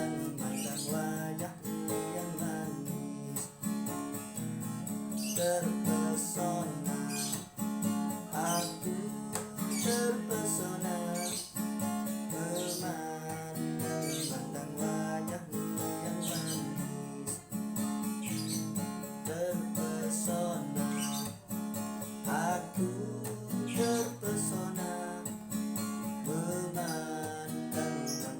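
Acoustic guitar strummed steadily, playing the chords of a pop song.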